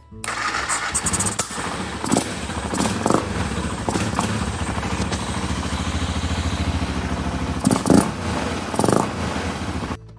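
The rebuilt BMW F650GS's Rotax single-cylinder engine running, with a few short louder bursts, the loudest about two seconds from the end. The sound starts just after the beginning and cuts off shortly before the end.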